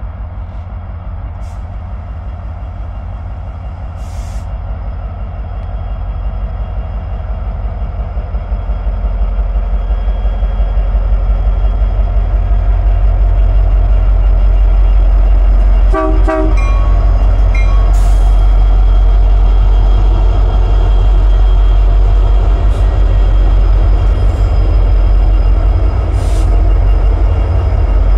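A train rumbling past, growing louder over the first dozen seconds and then holding steady. One short toot of the locomotive horn sounds about halfway through.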